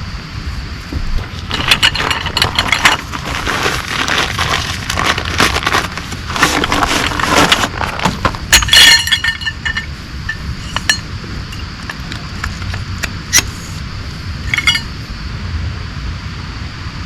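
Camping gear being handled: rustling and clattering, then a few ringing clinks about nine seconds in and scattered small clicks after, over a steady rain noise.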